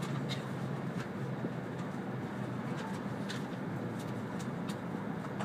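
Steady cabin noise inside an E2-series Shinkansen as it slows along a station platform: a constant low hum and rumble with a few faint clicks scattered through it.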